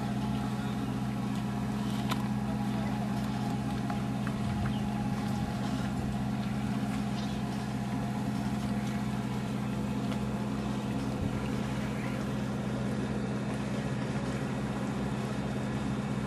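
A boat's motor running steadily, a low even hum with no change in speed.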